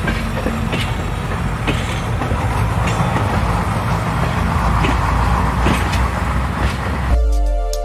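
A train rolls past with a steady rumble and a few sharp clicks. About seven seconds in, it cuts off abruptly to electronic music.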